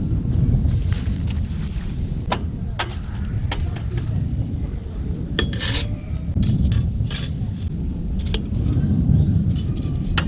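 Metal cookware and utensils clinking and knocking in a string of short sharp clicks, one louder clack about halfway through, over a steady low rumble.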